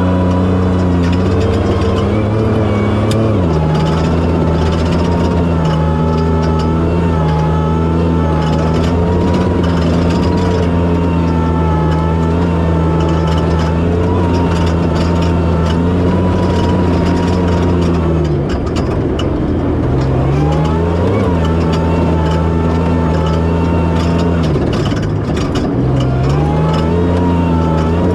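Toyota Tacoma prerunner's engine running hard at steady high revs. Its pitch steps down a little about three seconds in, then sags and climbs back twice in the last third as the throttle is eased and reapplied.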